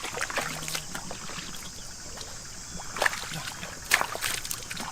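Shallow field water sloshing and splashing as hands and legs move through it, with irregular splashes and two sharper ones about three and four seconds in.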